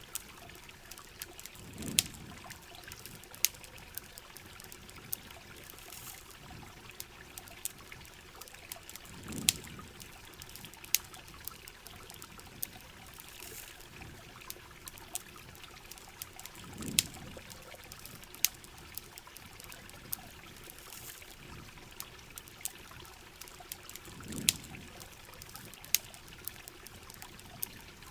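Steady rain with trickling water, sharp campfire crackles and pops scattered throughout, and a soft low swell about every seven and a half seconds.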